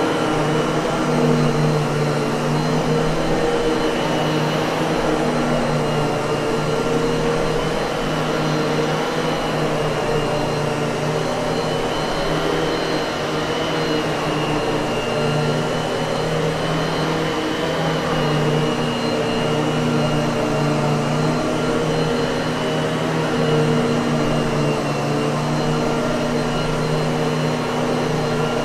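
Miele vacuum cleaner running steadily: a constant motor hum with a high whine above it.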